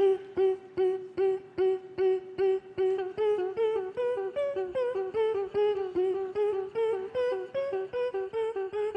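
A vocal duo's a cappella performance opening. A short, clipped note is repeated about two and a half times a second, each with a click at its start, like a plucked synth riff. From about three seconds in, a second, higher line steps up and down over it.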